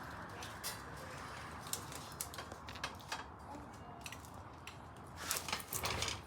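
Scattered light clicks and knocks over a steady background hiss, with a few louder knocks near the end.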